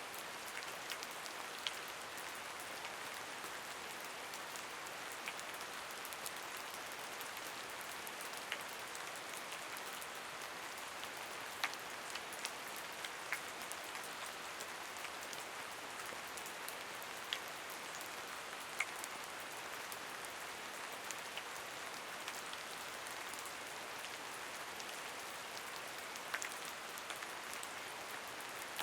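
Steady rain, an even hiss with scattered louder drops ticking on a surface.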